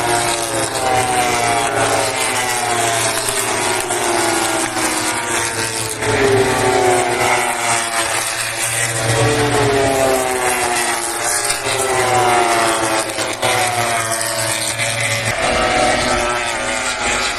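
MotoGP four-stroke race motorcycles passing in a stream, one after another. Their engines repeatedly fall in pitch as the riders brake and shift down for the chicane.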